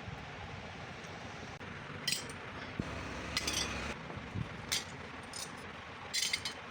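Light metal-on-metal clinks, about five of them, short and ringing high, from about two seconds in, over a steady low background noise.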